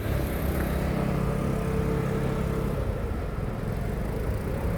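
A motor vehicle's engine running with a steady low hum, which fades out about three seconds in and leaves a low rumbling noise.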